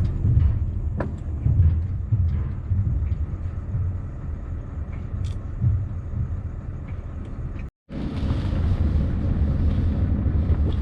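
Scania V8 truck engine running at low speed with a steady low rumble. The sound cuts out for a split second about eight seconds in, then resumes.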